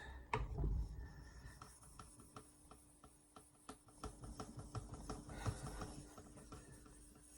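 Faint irregular light taps and rubbing from handling things on a work surface, over a faint steady hum.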